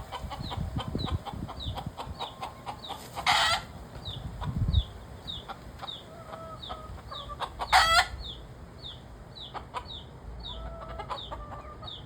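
Chicks cheeping steadily, two or three short high peeps a second, while hens cluck and a chicken gives a loud squawk about three seconds in and another about eight seconds in. The flock is settling down after a long bout of noise.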